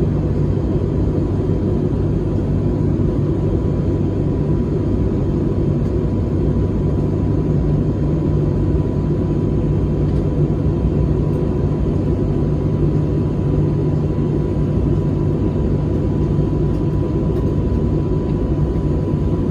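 Steady in-flight cabin noise of an Airbus A321neo: an even rush of engine and airflow noise, strongest in the low end, with a low hum and a faint steady high tone over it.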